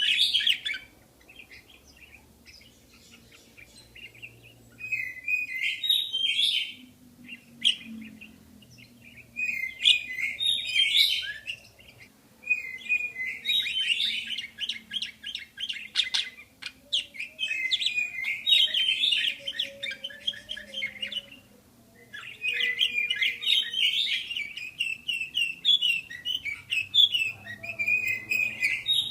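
Budgerigars chattering and warbling in bouts of rapid, high chirps, with short pauses between the bouts.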